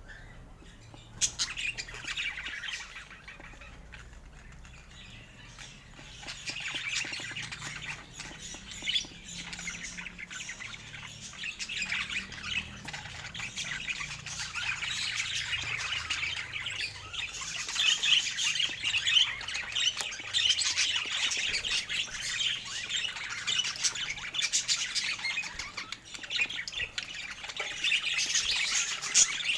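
Budgerigars chattering, with chirps and squawks. The chatter starts about a second in and grows busier and louder after about six seconds.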